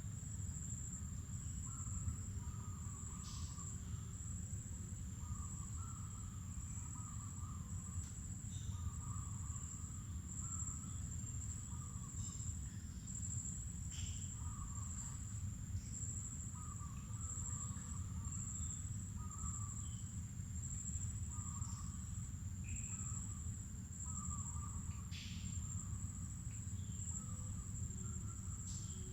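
Insects trilling in one steady, unbroken high-pitched tone, with birds calling in short repeated warbling phrases and a few brief sharp chirps, over a low steady rumble.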